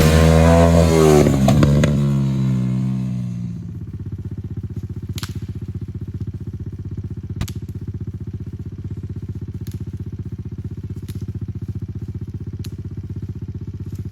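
Background rock music fades out over the first few seconds, leaving a pit bike engine idling steadily, with a few sharp ticks scattered through it.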